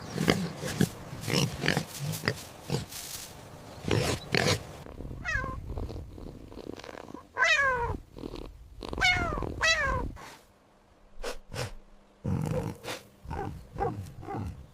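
Domestic cat meowing: several separate meows, each sliding down in pitch, about halfway through, among other short cat noises.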